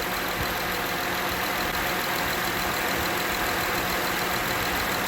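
2010 Honda Crosstour's engine idling steadily, with the newly fitted alternator charging at about 13.8 volts.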